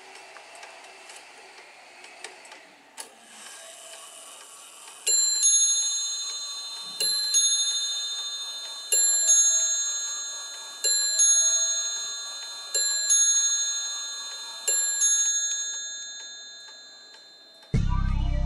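Kieninger mechanical mantel clock ticking, then striking on its bell: about six strokes roughly two seconds apart, each ringing on and slowly dying away. Music comes in just before the end.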